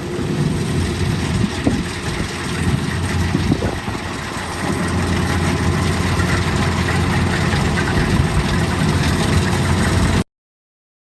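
Kubota DC-120X combine harvester's diesel engine running steadily, a little louder and steadier from about five seconds in. The sound cuts off abruptly about ten seconds in.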